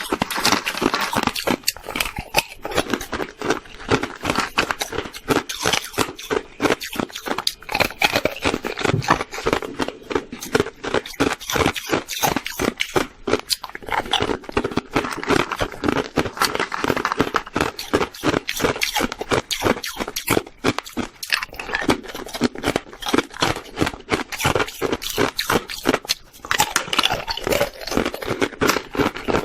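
Hard white ice being bitten and chewed: a rapid, continuous run of crisp cracks and crunches.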